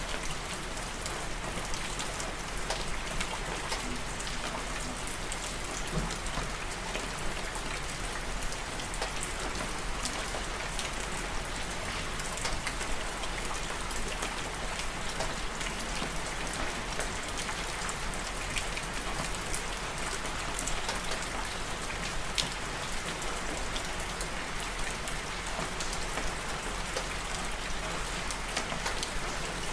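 Steady rain falling on a surface, an even hiss with many individual drops ticking throughout.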